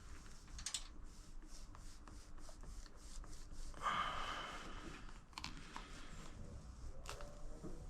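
Faint rubbing and light ticks of a cloth being worked along a freshly applied vinyl decal on a plastic side panel, pressing it down to push out air bubbles, with a longer rub about four seconds in.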